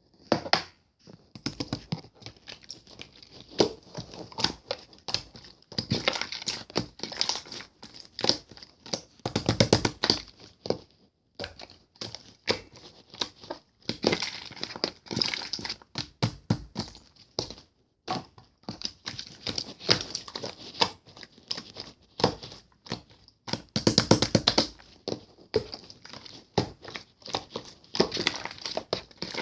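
Crinkling and crackling of something being handled, in dense runs of small clicks with brief pauses.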